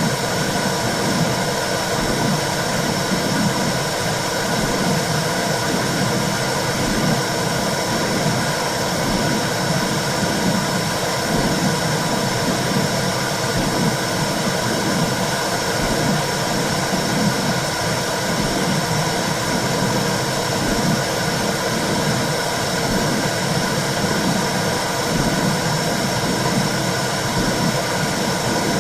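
Simulated womb sound for soothing a baby: a steady whooshing noise, like blood flow heard from inside the uterus, with a regular low pulse beneath it.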